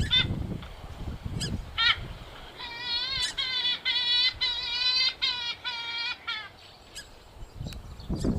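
Rail-family waterbird (mandar) calling: a few short nasal calls, then a fast run of repeated nasal notes lasting about four seconds. It is a lure recording used to attract the birds.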